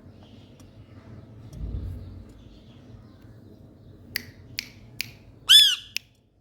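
A low rumble about two seconds in, then three sharp clicks about half a second apart. These are followed by a single loud, short Indian ringneck parakeet squawk that rises and falls in pitch, and one more click.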